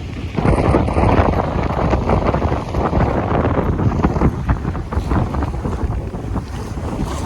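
Strong wind buffeting the microphone aboard a sailing yacht underway, coming in gusts, with the wash of water along the hull beneath it.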